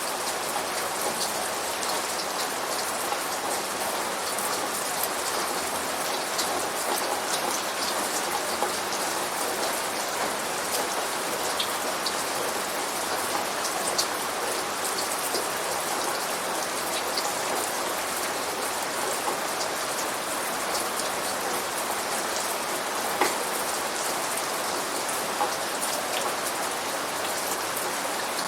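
Steady rain falling, with a dense hiss and many small drop impacts pattering on a surface.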